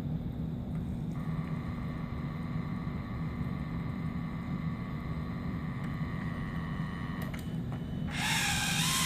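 Lionel R-30 subway train set's electric motors running with a steady hum and a whine. The whine stops briefly about a second in and drops away near the end. A loud hiss lasting about a second and a half follows at the end.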